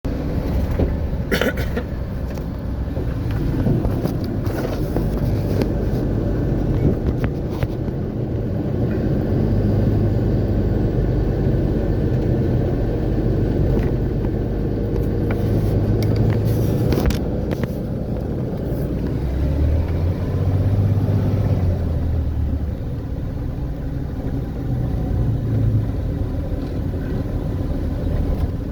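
A car driving through city streets: steady low engine and road rumble, with a couple of sharp knocks, one about a second and a half in and another around seventeen seconds.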